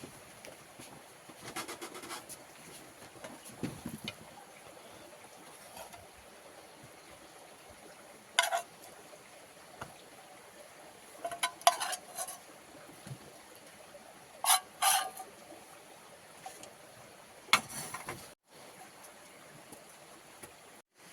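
A handful of short, sharp knocks and clatters, a few seconds apart, over a faint steady hiss.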